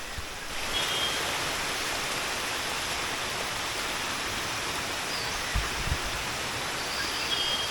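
Fast-flowing stream water rushing over rocks, a steady hiss, with a couple of faint short high chirps and soft low bumps about five and a half seconds in.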